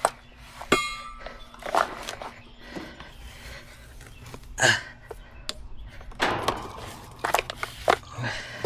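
Scattered knocks and clicks of metal tools and hose fittings being handled while hoses are hooked up to the refrigerant lines, with one metallic clink that rings briefly just under a second in.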